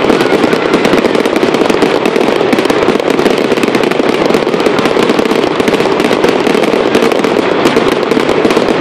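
Fireworks display: a dense, continuous barrage of rapid bangs and crackles with no let-up.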